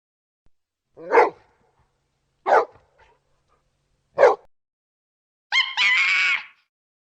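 A dog barks three times, with about a second and a half between barks. Near the end, a horse whinnies once, a quavering call lasting about a second.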